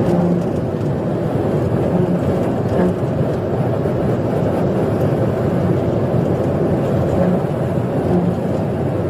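Steady engine and road noise of a police car being driven fast in a high-speed pursuit.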